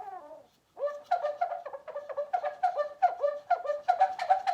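A medium-sized plastic-bottle bird chirper being whirled on a shoelace. Air rushing in and out of the slot in its side makes a quick run of short chirps that fall in pitch, about three a second, starting about a second in.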